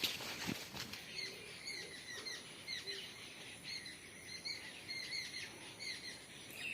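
Small birds chirping in many short, repeated high calls, over a faint steady high-pitched hiss. A few sharp knocks, like footsteps, sound in the first second.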